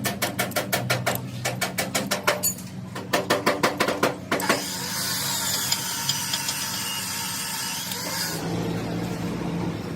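Rapid metal-on-metal hammering, about five blows a second, for the first four seconds or so. It gives way to a steady machine noise with a high whine, which drops to a lower hum near the end. A low hum continues underneath.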